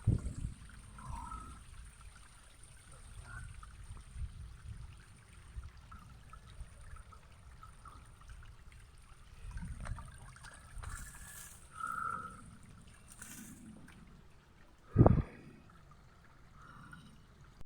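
Water trickling from a small mountain waterfall, steady throughout. There is a low thump right at the start, and a louder sharp low thump about fifteen seconds in, the loudest sound here.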